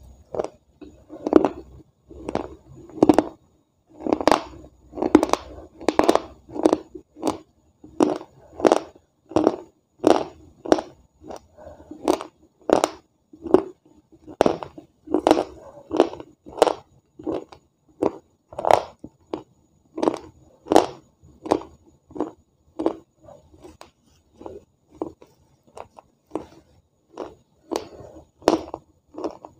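Close-miked crunching as a person chews wet pieces of clay pot, a steady run of short crisp crunches, about two a second.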